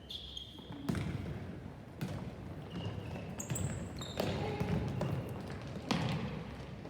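A ball being kicked four times, sharp thuds one to two seconds apart, over steady field noise with short high-pitched calls in between.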